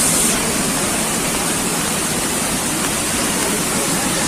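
Floodwater rushing in a steady, loud, even torrent.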